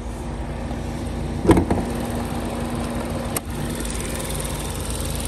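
A Ford Focus ST's turbocharged 2.0-litre four-cylinder engine idling with a steady hum. A loud thump comes about one and a half seconds in and a sharp click about two seconds later as the hood is unlatched and raised.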